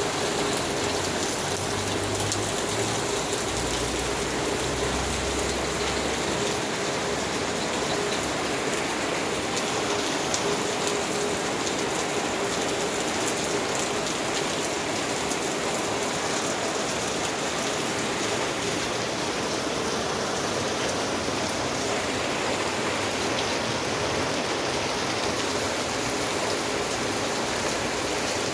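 Heavy rain falling steadily: an even, constant hiss with scattered drop ticks.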